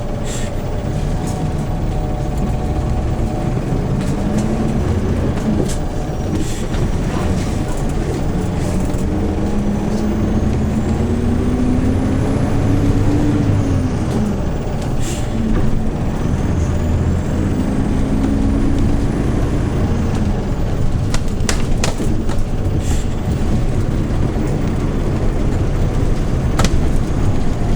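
Hyundai New Super Aero City CNG city bus's natural-gas engine pulling under acceleration, heard from inside the cabin. The engine note climbs steadily for several seconds, drops at a gear change, then climbs again, with a faint rising whine above it and a few sharp rattles and clicks.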